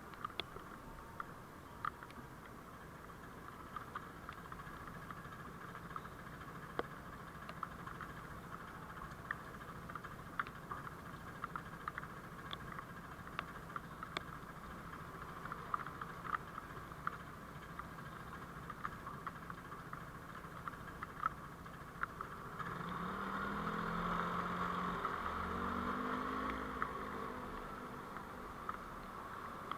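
Steady engine and road noise of a moving vehicle, with scattered faint clicks. About 23 seconds in, a louder engine swells in, its pitch bending up and down, and eases off again near the end.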